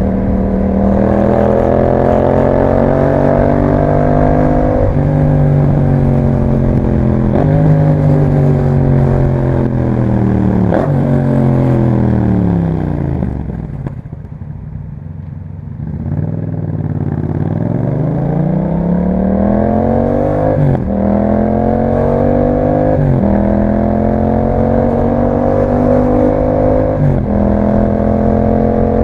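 2021 Yamaha MT-07's 689 cc parallel-twin engine through an Akrapovic exhaust, slowing on engine braking with gear changes to a quiet near-idle about halfway through. It then pulls away, revving up through three upshifts, each a brief break and drop in pitch.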